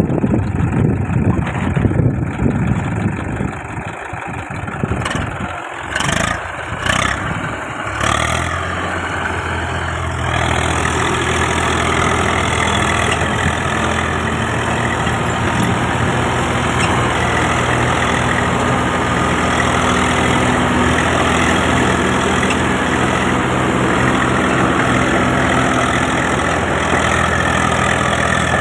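Tractor diesel engine running, uneven for the first several seconds with a few sharp knocks, then settling into a steady run from about eight seconds in.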